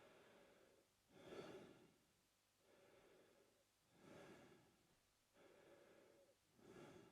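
A man breathing slowly and evenly through his mouth, quietly. Each softer, even breath is followed by a louder, swelling one, and the cycle repeats about every two and a half to three seconds, nearly three times over.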